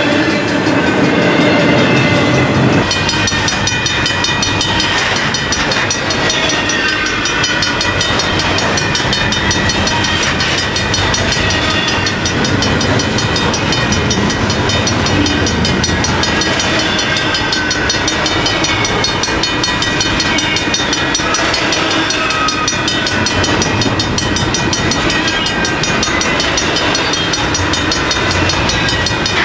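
A long double-stack container freight train rolling past close by: steady loud rumble of steel wheels on rail with rapid clicking over the joints and thin wavering high squeals from the wheels. The sound changes abruptly about three seconds in.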